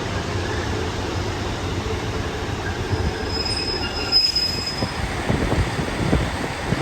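Passenger train moving along the platform with a steady low rumble, and a thin high-pitched wheel squeal from about three seconds in that stops about two seconds later.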